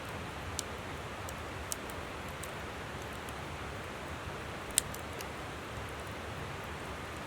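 Campfire crackling, a few sharp pops over a steady rush of flowing river water, the loudest pop almost five seconds in.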